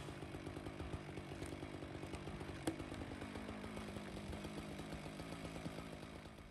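Gas chainsaw idling with a quick even pulse, off the throttle after a cut, then dropping away near the end.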